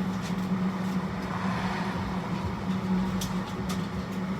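A steady machine hum with a few faint light clicks.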